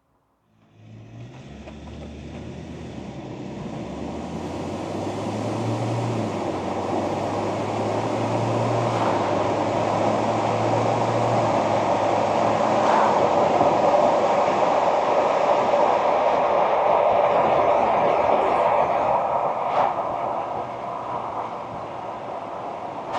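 Ford Ranger pickup driving off and gathering speed: a low engine drone in the first half, then steadily building tyre and road noise that takes over and eases off a little near the end.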